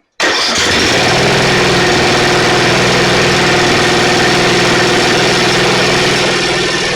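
Snapper riding mower engine running steadily, loud, coming in abruptly just after the start and easing off slightly near the end. The mower is running after its hard-start fault, traced to the engine shut-down switch wiring, was found.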